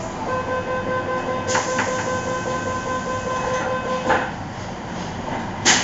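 Inside a first-generation MTR M-Train: a steady tone holds for about four seconds over the car's rumble, with a few knocks, then stops. A sharp loud clunk follows near the end.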